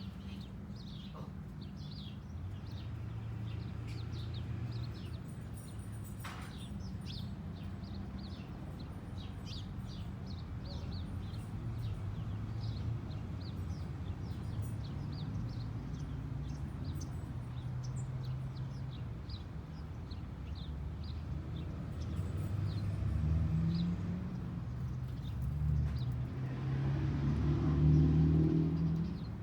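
Many small birds chirping in quick short notes throughout, over a steady low engine rumble that swells near the end.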